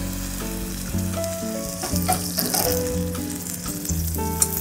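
Chopped purple potato and shallot sizzling in hot oil in a small stainless saucepan on a gas burner as vegetable stock is ladled in, with a steady hiss throughout. Background music plays underneath.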